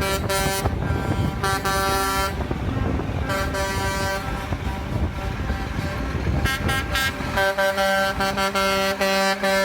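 Truck air horn sounding over a low engine rumble: several short toots, then longer held blasts. About three-quarters of the way through, the rumble drops away and the horn holds one long steady blast.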